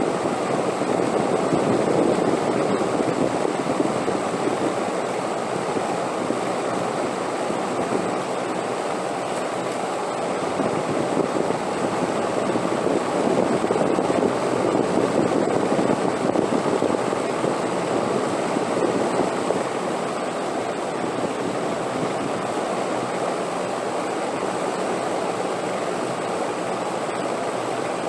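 Steady wind blowing as a continuous rushing noise, swelling and easing slightly a few times.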